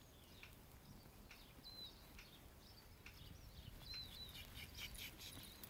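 Faint small-bird chirps: short high calls, several of them slurring downward, scattered through an otherwise quiet outdoor background.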